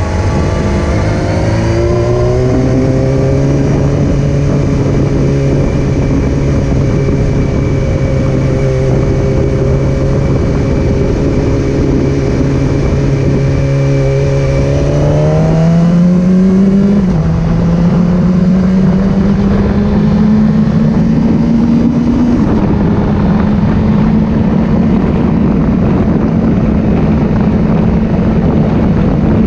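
Motorcycle engine running under way. Its pitch rises in the first couple of seconds and holds steady, then changes quickly a little past halfway and climbs slowly through the rest, over a steady rushing noise.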